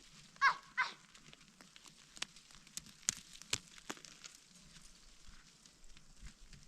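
Two short bleats from livestock about half a second in, each falling in pitch, followed by a few scattered sharp clicks.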